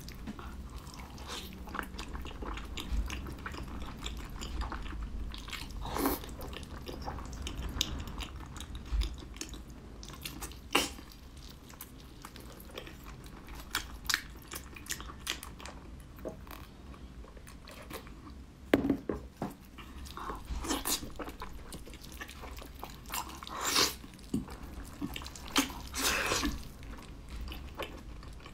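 Close-up eating sounds of braised pork knuckle: biting, tearing and chewing the soft meat and skin, with irregular short clicks and smacks throughout.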